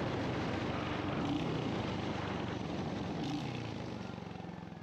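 Royal Enfield Hunter 350's single-cylinder engine running steadily under wind and road noise, the sound fading out toward the end.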